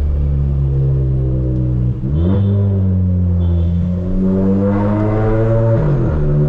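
Tuned Volkswagen Polo GTS turbocharged four-cylinder engine with a sports exhaust, running under load while driving. Its note dips sharply and picks back up about two seconds in and again near the end, and drifts slowly in pitch in between.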